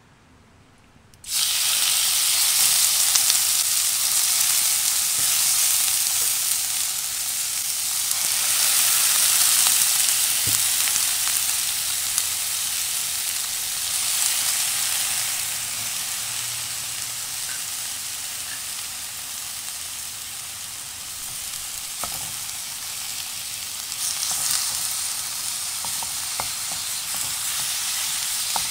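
Sliced chicken sizzling in a hot, oil-sprayed wok; the sizzle starts suddenly about a second in and then holds steady. A silicone spatula stirs the meat, adding a few light taps and scrapes against the wok.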